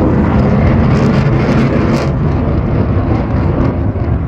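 Airplane flying past at an air show: a loud, steady engine rumble.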